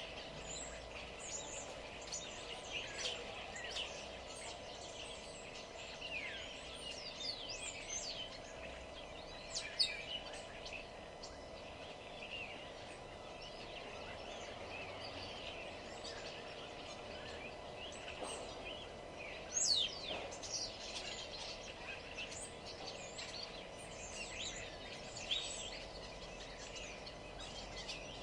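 Several small birds chirping and singing at once, many quick notes and downward-sweeping calls overlapping, with a couple of sharper, louder calls at about ten and twenty seconds in. A faint steady hum lies beneath them.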